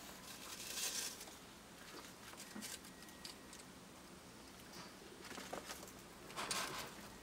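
Baby bearded dragons and dubia roach nymphs scrabbling in a feeding tub: light scratching and patter with small clicks, and two louder rustles, about a second in and near the end.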